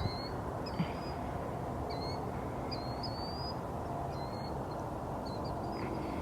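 Wild birds calling: short, high chirping calls repeated every half second to a second, over a steady low background rumble.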